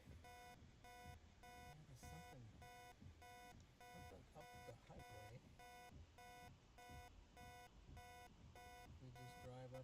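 Faint electronic alarm beeping in a steady train of short, multi-tone beeps, about two a second.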